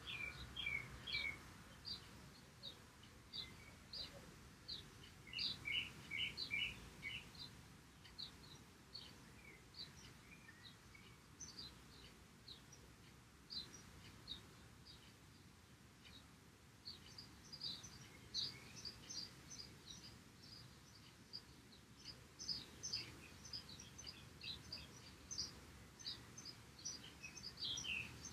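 Faint bird chirping: many short, high chirps and twitters, busier in the second half.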